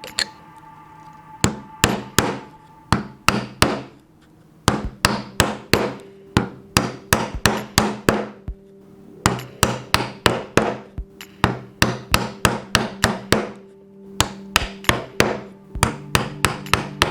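Hammer blows on wood during hand-cut mortise and tenon joinery, struck in quick runs of about three a second with short pauses between runs.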